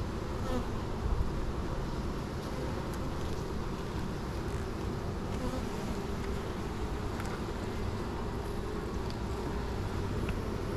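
Honeybees buzzing steadily around an open beehive while its frames are inspected.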